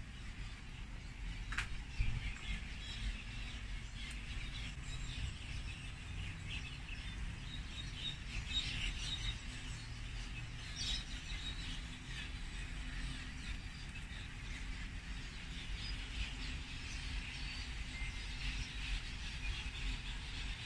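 Light rain beginning to fall, with birds chirping here and there and wind on the microphone.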